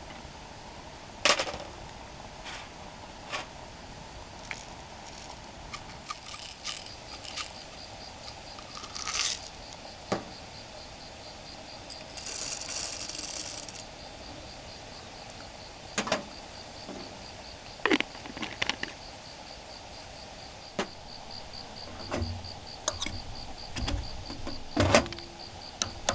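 An insect chirping in a fast, even pulse, with scattered clinks and knocks of gear being handled and a short hiss about twelve seconds in.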